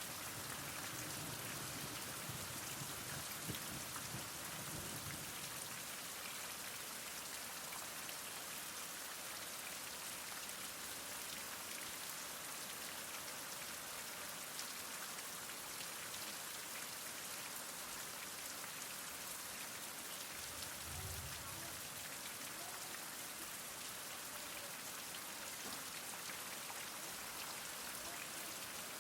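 Heavy rain falling steadily, an even hiss of many drops with no letup. A low rumble swells briefly during the first few seconds and again about twenty seconds in.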